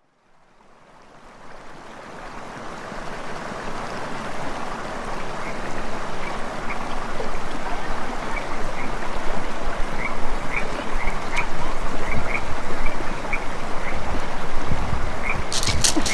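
Creek water running, with frogs croaking in short repeated calls over it. The sound fades in over the first few seconds, and a run of sharp clicks begins just before the end.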